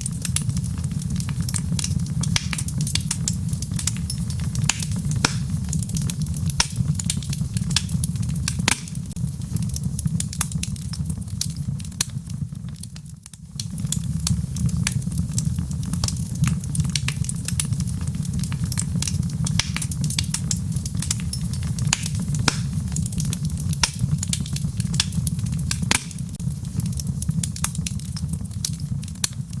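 Log fire in a fireplace crackling, with frequent sharp pops and snaps over a steady low rumble of the flames. The sound briefly drops away for about a second near the middle, then returns.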